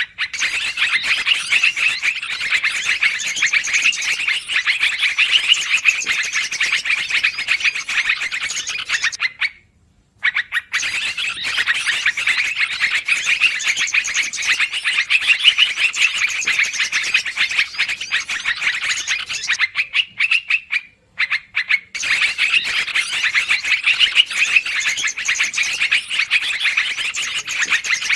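Bird-lure recording of trucukan (yellow-vented bulbuls) calling noisily: a dense, continuous chatter of rapid chirps, broken by two short pauses where the recording loops.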